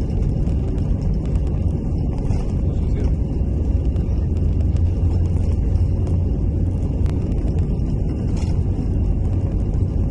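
Airbus A320 jet engines and airflow heard from inside the cabin: a loud, steady low rumble with a faint steady whine above it.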